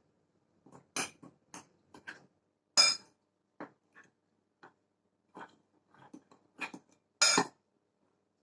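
Cutlery mixing dry flour, sugar and cocoa in a plate: irregular clinks and short scrapes against the plate, with two longer, louder scrapes about three seconds in and near the end.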